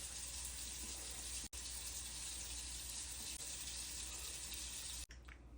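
Water running steadily from a sink tap, with a split-second break about one and a half seconds in; it stops abruptly near the end.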